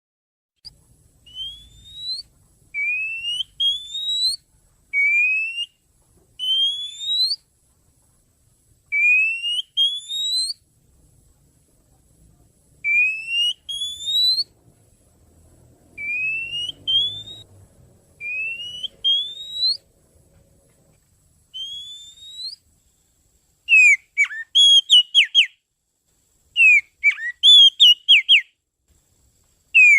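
Oriental magpie-robin (kacer) lure call: clear whistled notes, each rising in pitch, given singly or in pairs with short gaps. About three-quarters of the way in it changes to a quicker run of short, sharp notes.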